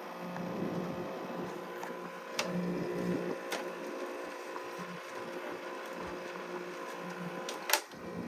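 Carrier UC series 8,400 BTU window air conditioner running on cool, a steady loud hum of compressor and fan. A few sharp clicks or knocks cut across it, the loudest near the end.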